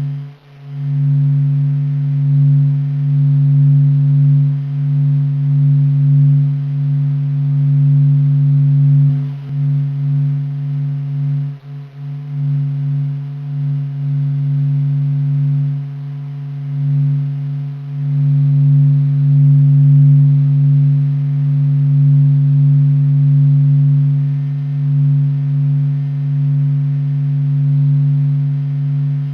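Deep, steady droning hum with a fainter tone above it, swelling and dipping in loudness: NASA's sonification of the sun's surface vibrations, sped up until they can be heard.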